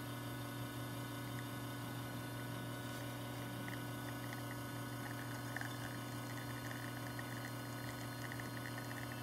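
Rocket R58 espresso machine's pump humming steadily while a shot pours from the portafilter, with faint trickling and dripping of the coffee stream.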